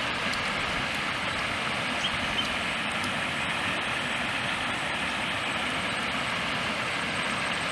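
A steady rushing noise with a few faint clicks.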